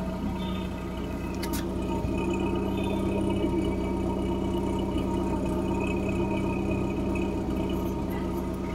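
Mitsubishi Lancer engine idling steadily, heard at the tailpipe, after the car has sat unused for over a year.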